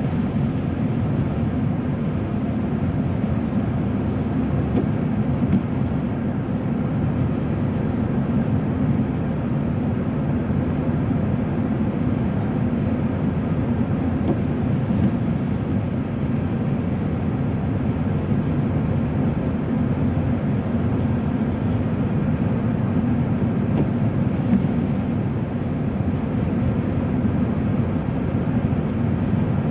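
Steady road noise inside a moving car's cabin: an even low rumble of tyres and engine at a constant level.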